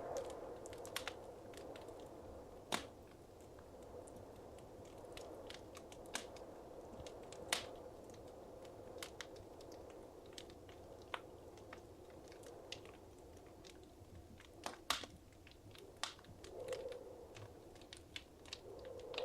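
Wood fire crackling in a fireplace: irregular sharp pops and snaps, a few louder ones, over a soft steady hiss.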